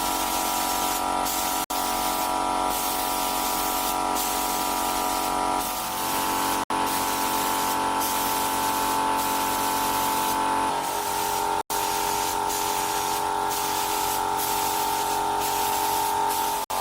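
Pressurised spray hissing steadily, with steady tones underneath that change pitch twice. The sound cuts out for an instant about every five seconds.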